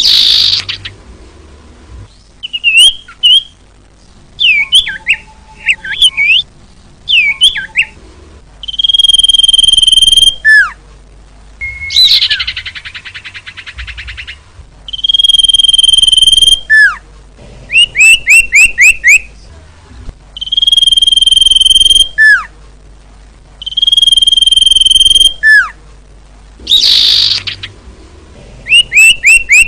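Female common iora (cipoh) calling: long, steady whistled notes repeated every few seconds, alternating with quick runs of down-slurred notes and a couple of harsh, rasping calls. It is the kind of call used to lure males.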